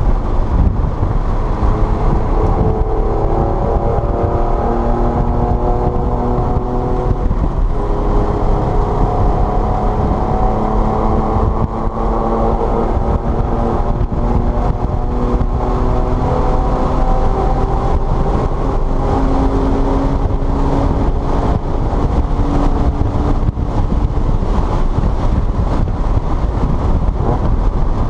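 Car engine heard from inside the cabin while lapping a wet race track, its note climbing slowly in pitch and dropping back several times as it pulls through the gears, over a steady heavy low rumble of road and wind noise.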